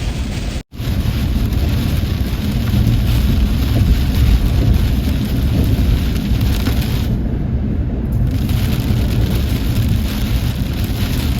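Heavy rain pounding steadily on a car, heard from inside, with a deep rumble underneath. The sound drops out for an instant less than a second in, then carries on unchanged.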